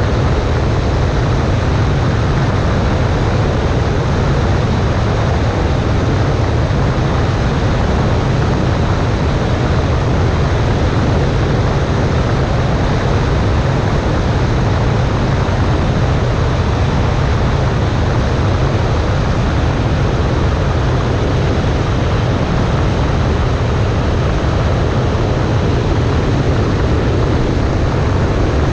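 Cessna 140A light aircraft in flight: its engine and propeller give a steady low drone under a constant rush of wind noise.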